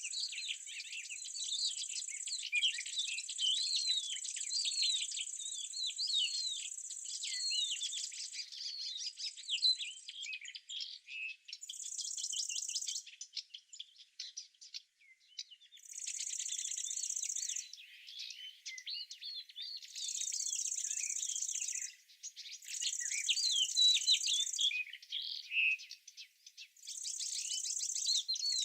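Small birds chirping and twittering busily, overlapping, with an insect's high steady buzz that switches on and off in bouts of a few seconds.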